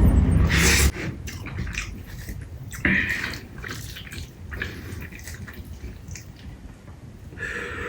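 Close-miked chewing with wet mouth clicks and smacks, someone eating chicken biryani. A loud low rumble in the first second.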